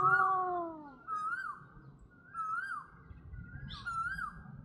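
A bird calling over and over, a short whistled note that rises and falls, about once every second and a quarter; the first call is the loudest.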